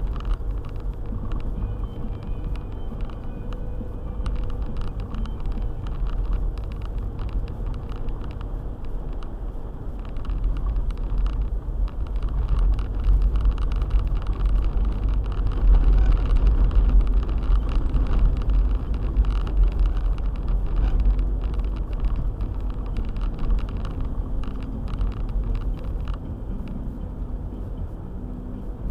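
Car driving on a snow-covered road: a steady low rumble of engine and tyres with many small ticks over it. It grows louder from about twelve seconds in, then eases off again.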